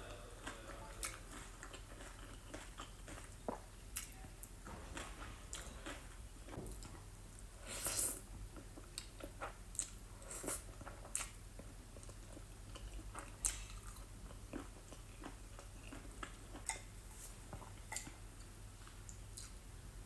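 A person eating close to the microphone: chewing and mouth smacks from octopus and black-bean noodles, with scattered short wet clicks and a louder burst about 8 seconds in.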